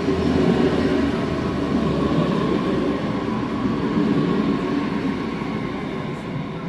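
Red DB S-Bahn electric multiple unit running along the platform and away down the track: wheels rolling on the rails and a steady electric whine from the drive. The sound fades as the train moves off near the end.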